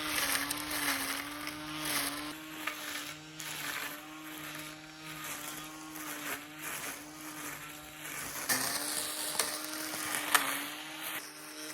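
Compact string trimmer running at a steady, slightly wavering pitch, with repeated rushing swells as its line sweeps through grass.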